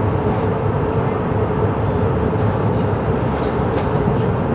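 Interior running noise of a CRH6A electric multiple unit, heard inside the passenger car: a steady low rumble with a constant hum, and a few faint clicks a little before the end.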